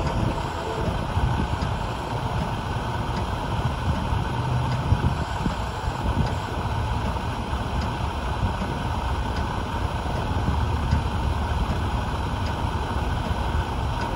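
Steady low rumble and rush, wind on the microphone mixed with a freight train approaching the crossing, with no distinct events. A faint train horn chord fades out in the first moment.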